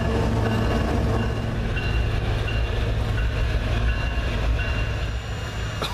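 Train running past with a steady low rumble, while high thin squealing tones come and go. A sharp click near the end.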